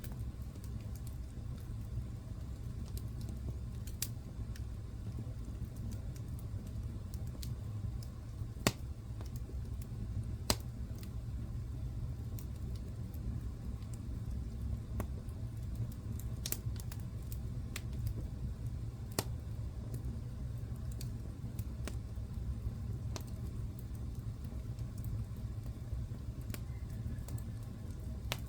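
Wood fire burning in a fireplace: a steady low rumble with scattered sharp crackles and pops, the two loudest pops about nine and ten and a half seconds in.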